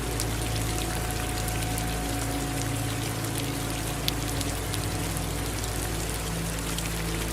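Steady rain falling, with many individual drops ticking, over a continuous rush of running water.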